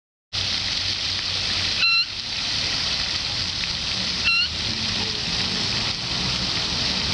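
Steady rush of running water, with two short, sharp moorhen calls about two and a half seconds apart.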